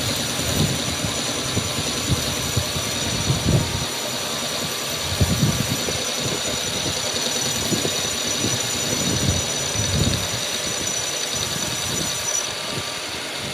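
An engine or motor running steadily, with a high whine above it and irregular low thuds.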